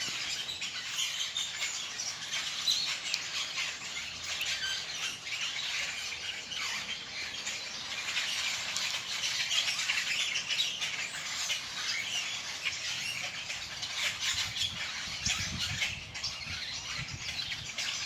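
A dense chorus of many birds chirping and squawking at once, a flock calling from up in the trees without a break.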